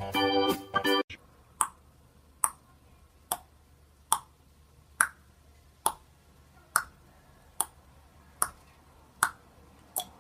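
Keyboard music cuts off about a second in, followed by a sharp click repeated evenly, a little more than once a second, eleven times.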